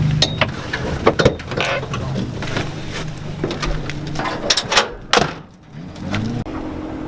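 A car engine running at low revs, with scattered sharp knocks and rattles. The sound drops away briefly about five and a half seconds in.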